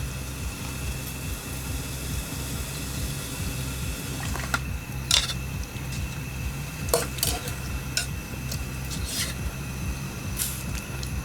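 Metal camp cookware and utensils clinking and knocking, about seven separate sharp clinks in the second half, over a steady low rumble.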